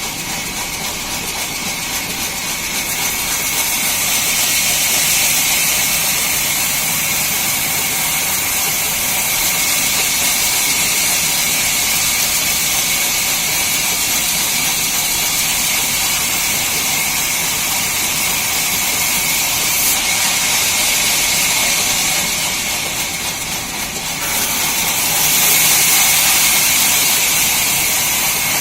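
Sawmill machinery running steadily with a loud, hissing noise. It dips briefly shortly before the end and then grows louder again.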